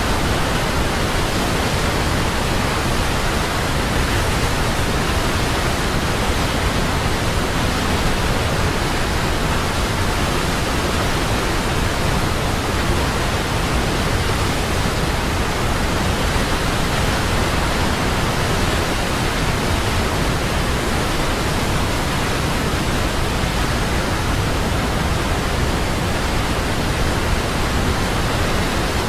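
Large waterfall: a steady, loud, unbroken rush of falling water with a deep low rumble.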